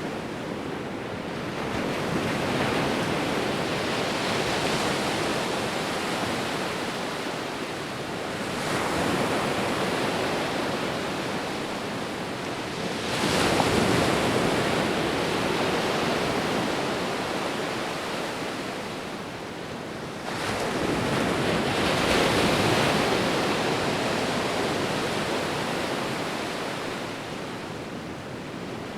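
Sea waves rolling in as a continuous rush of surf. It swells louder with each incoming wave, four times over, every four to eight seconds, then eases back between them.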